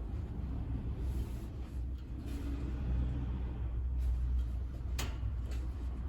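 Wood fire burning in a wood stove: a steady low rumble of the burning fire with a few sharp crackles from the logs, the loudest about five seconds in.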